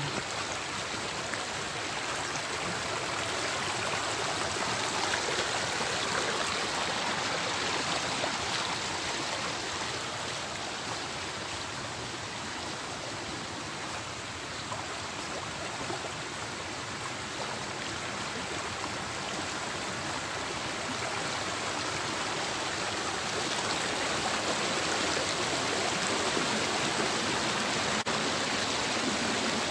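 Steady rush of a stream's flowing water, swelling and easing gently in loudness.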